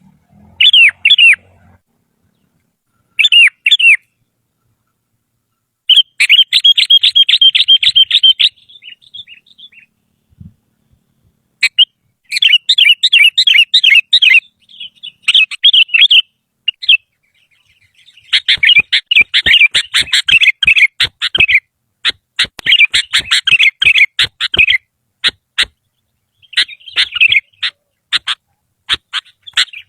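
Sooty-headed bulbul (kutilang) singing loudly in bursts of fast, warbling chirps, broken by short pauses. The bouts come closer together about two-thirds of the way in, where sharp clicks sound among the notes.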